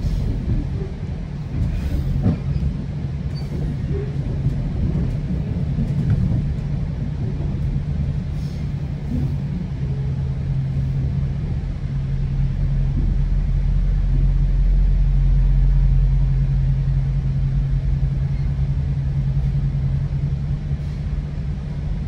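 Moving GO commuter train heard from aboard: a steady low rumble of the train running on the track, with a low hum that turns steadier and stronger from about halfway through. A few light knocks sound in the first several seconds.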